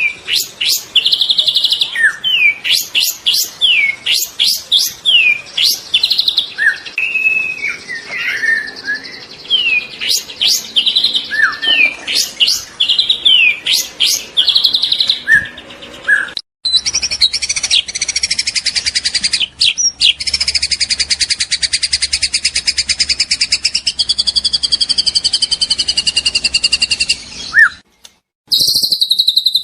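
Juvenile white-rumped shama singing a fast run of loud, varied whistles and sweeping chirps. About halfway through the sound cuts abruptly to a long, steady, rapid buzzing trill that lasts about ten seconds, followed by a short break and another high trill near the end.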